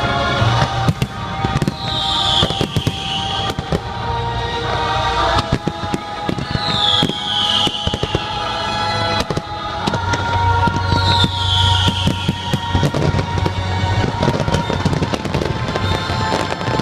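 Fireworks bursting and crackling in rapid succession over loud show music.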